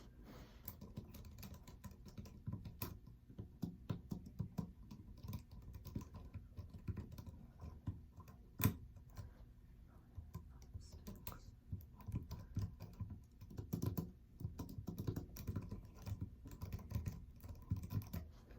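Typing on a computer keyboard: quick irregular runs of key clicks, several a second, with one sharper, louder strike about nine seconds in.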